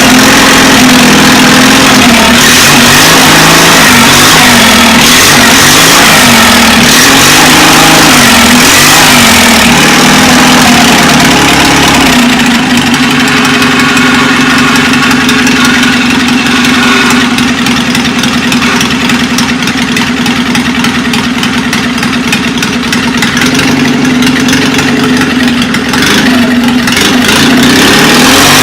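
Pulling tractor's engine running loud, blipped up and down in repeated revs for the first part. It then holds a steadier, slightly lower note and picks up again near the end.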